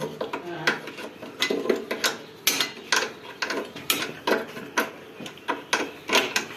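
Metal clicks and clinks, roughly two a second, from hand tools working on tractor gearbox parts.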